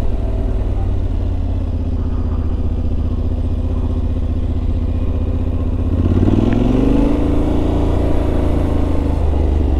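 Yamaha Ténéré 700's parallel-twin engine running under way, picking up revs about six seconds in and then holding steady.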